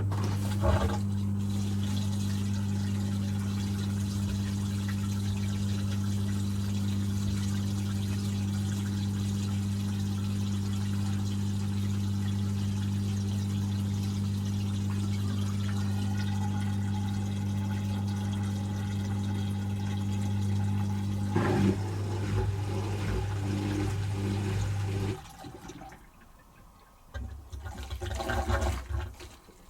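Asko W6098X washing machine's drain pump humming steadily as water flushes out of the drum at the start of the final spin. About 25 seconds in the pump cuts out, leaving a few irregular knocks and rushes, and it starts again at the very end.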